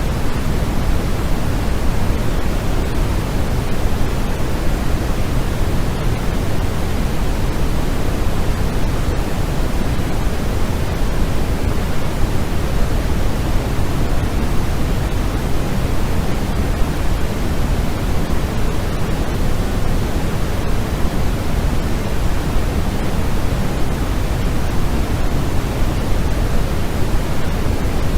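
Steady, unvarying noise with no tones or events. It is weighted toward the low end, closer to pink noise than to true white noise.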